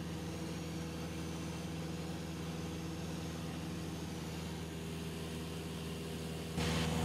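Cessna 172SP's four-cylinder Lycoming engine and propeller droning steadily in level cruise, a steady low hum with hiss above it. About six and a half seconds in it suddenly gets louder and stays so.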